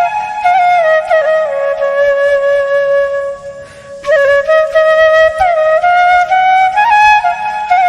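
Background music: a solo flute playing a slow melody of long held notes with quick ornamental flicks between them. It breaks off briefly about three and a half seconds in, then resumes.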